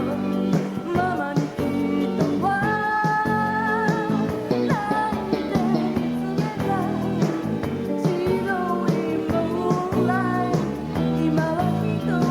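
Live pop band performance with a woman singing lead over guitar-led backing. She holds one long note about two seconds in.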